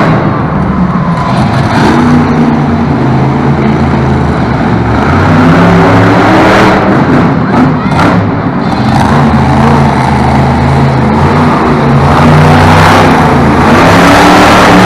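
Monster truck engine revving hard, its pitch rising and falling repeatedly during a freestyle run.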